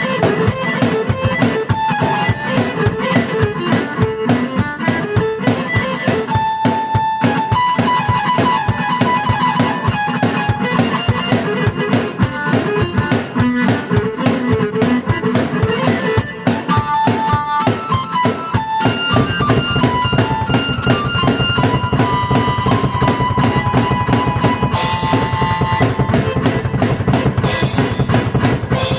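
Drum kit and keyboard played at the same time: a steady drum beat under a keyboard melody. The sound fills out in the low end about two-thirds of the way through, with cymbal crashes near the end.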